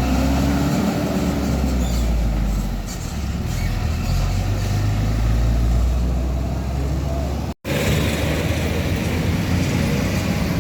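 Heavy truck diesel engines running close by with road noise. About two thirds of the way through the sound drops out for a moment at an edit, and another truck's engine and tyre noise carry on.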